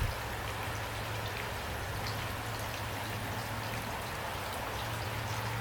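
Steady rain falling at night, with individual drops ticking on a surface over an even hiss, and a constant low hum underneath. A single soft thump right at the start.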